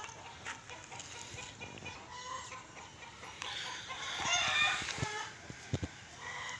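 Farmyard chickens clucking, with a rooster crowing once, a long pitched call about halfway through, then a couple of low thumps near the end.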